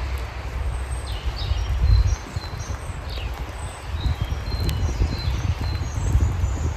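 Several songbirds chirping and calling in short high notes, some sliding down in pitch, over a steady hiss of rain and a low, uneven rumble.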